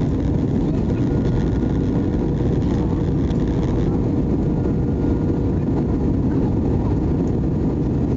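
Steady cabin noise of an Airbus A320-200 in flight on approach: a constant rumble of engines and airflow, with a faint steady hum.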